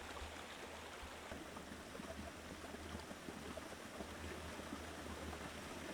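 Faint, steady rushing of a flowing forest stream.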